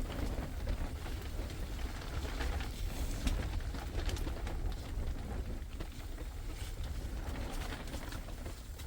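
A bird cooing, dove-like, over a steady low rumble of wind on the microphone.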